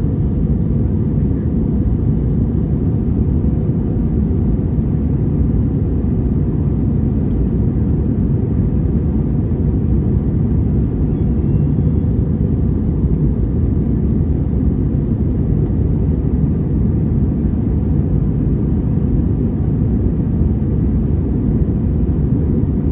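Steady low rumble inside the passenger cabin of an Airbus A321-200 airliner with its engines running, even and unchanging throughout.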